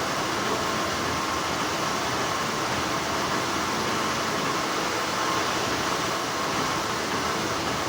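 Steady machine noise of textile factory machinery running continuously, even and unbroken, with a faint steady tone in it.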